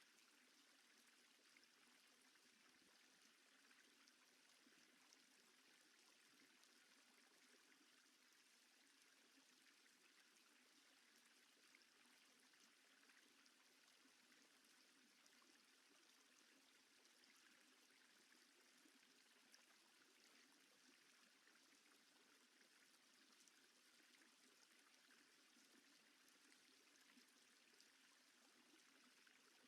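Near silence: only a faint, steady hiss of background noise.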